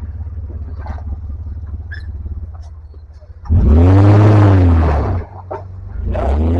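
Off-road 4x4's engine idling with a low rumble, then revved hard about halfway through, its pitch rising and falling over under two seconds. It revs again near the end as the rig tries to claw up a steep obstacle.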